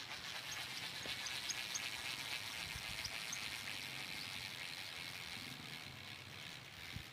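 Fishing reel being wound in steadily, a fine rapid whirring that starts at once and fades away near the end, with the line being retrieved on a hooked fish.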